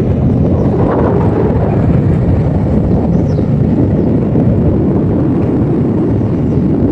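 Steady, loud rushing of river rapids, an even roar of water with no breaks.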